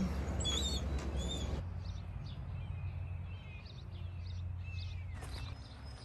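Wild birds calling outdoors: a few whistled notes in the first second or two, then scattered short chirps and a falling whistle near the end, over a low steady hum.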